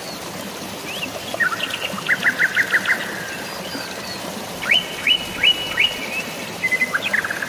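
Birds chirping in quick runs of short, sharp notes, about six in a row near two seconds in, a few upswept calls around five seconds and a fast trill near the end, over a steady hiss of drizzling rain and flowing water.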